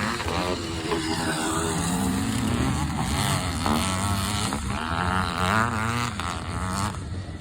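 Engines of several vintage motocross motorcycles racing, their notes rising and falling in pitch as the riders open and close the throttle.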